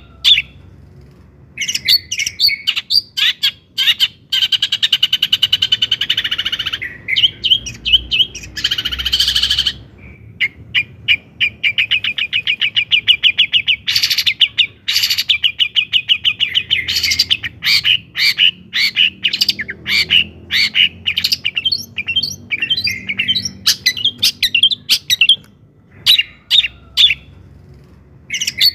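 Long-tailed shrike (cendet) singing a loud, fast, chattering song of rapid trills and harsh notes, full of phrases mimicked from other birds. The song starts after a short pause about a second in and runs in long unbroken rattling runs.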